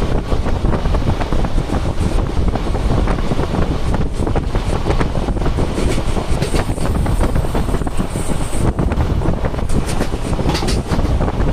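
A moving train running steadily, heard from inside the carriage, with wind blowing on the microphone over the loud low rumble.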